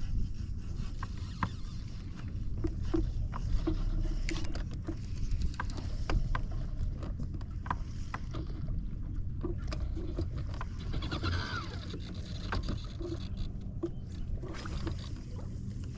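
Steady low rumble of a fishing boat on the water, with scattered small clicks and knocks.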